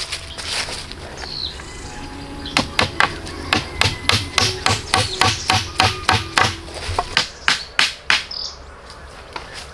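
Hammer blows, a quick steady run of about three strikes a second that slows and stops a little before the end. A bird chirps briefly.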